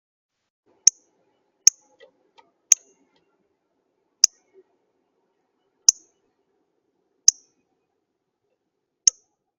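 A bird at a feeder making seven short, sharp, high-pitched clicks at uneven intervals, roughly one to one and a half seconds apart.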